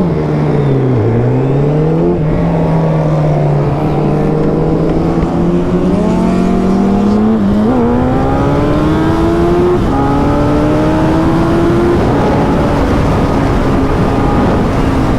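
Suzuki Hayabusa motorcycle engine pulling on the road. Its note dips and rises early on, then climbs slowly under acceleration, drops sharply at a gear change about ten seconds in, climbs again, and settles to a steady cruise near the end.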